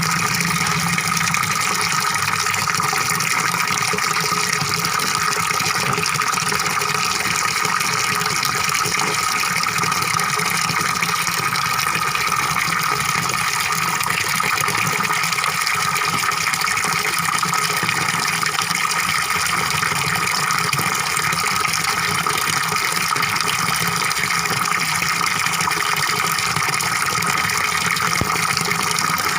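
Small fish-pond waterfall, water splashing and gurgling steadily without a break.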